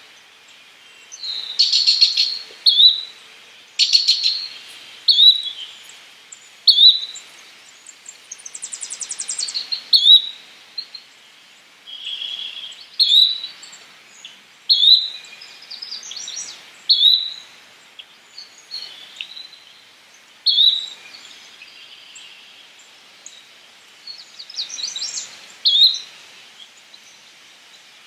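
Yellow-bellied flycatcher calling: a short, sharp, high note repeated about every one to two seconds. Other bird chirps sound between the notes, with a brief buzzy trill about nine seconds in.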